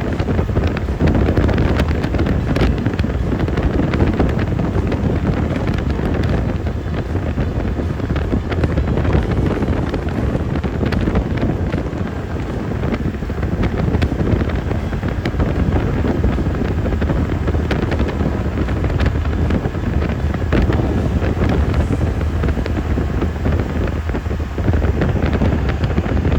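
Wind buffeting the microphone: a loud, steady low rumble with crackles.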